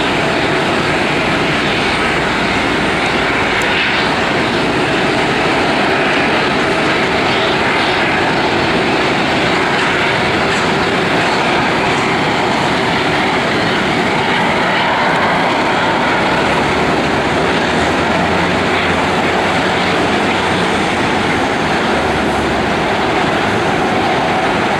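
Airliner engines running loud and steady, a continuous rush of engine noise with no break.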